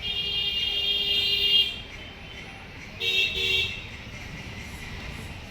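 Vehicle horn honking: one long honk of nearly two seconds, then two short honks about three seconds in, over steady street traffic noise.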